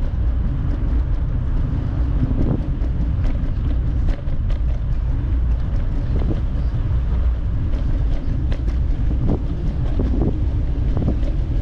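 Wind buffeting the microphone on a moving bicycle: a steady low rumble with scattered faint clicks and ticks.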